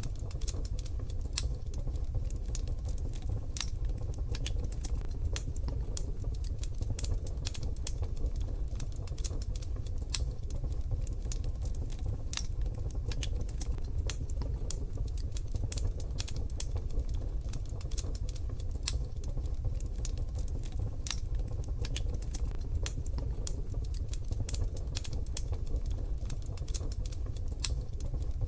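Wood fire crackling in a wood-burning stove: irregular quick pops and snaps over a steady low rumble.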